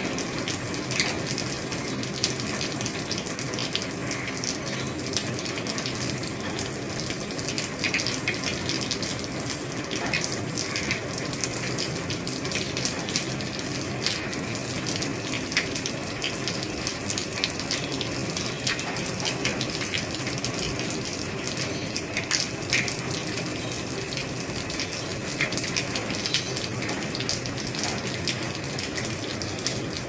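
Heavy rain falling on an old roof: a steady hiss of rain with many separate drops ticking sharply on the roofing.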